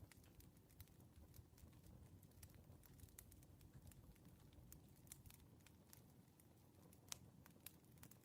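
Faint crackling wood fire from a firewood ASMR recording: irregular pops and snaps over a low, steady noise.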